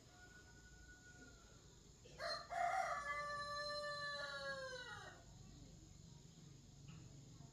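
Rooster crowing once: a single call of about three seconds, starting roughly two seconds in and falling in pitch at the end.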